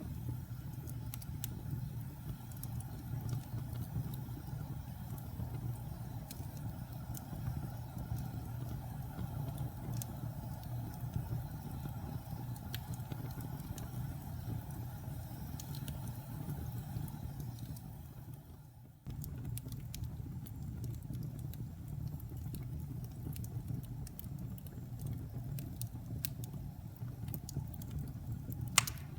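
Fireplace burning: a steady low rumble of flames with scattered small crackles and pops, one sharper pop near the end. About two-thirds of the way through, the sound dips briefly and then cuts back in suddenly, as at the restart of a looped recording.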